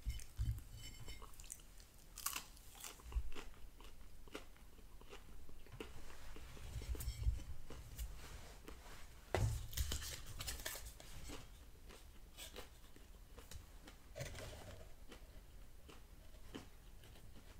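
Close-miked chewing and crunching of McDonald's Chicken McNuggets, heard as scattered crisp clicks and crackles, busiest about nine to eleven seconds in.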